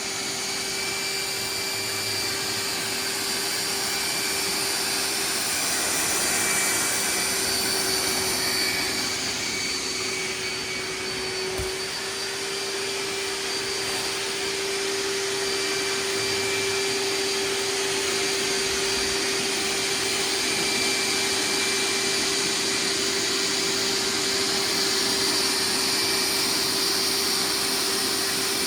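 Hoover wet/dry vacuum cleaner running steadily with a constant hum, sucking water out of a saturated rug.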